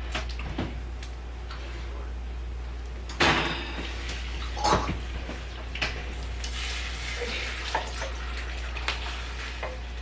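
Kitchen clatter: a few scattered clinks and knocks of dishes and utensils, the loudest about three seconds in, over a steady low hum.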